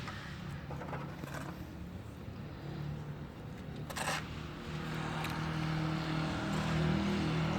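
An engine running steadily with a low hum, growing louder about five seconds in, with a short sharp knock about four seconds in.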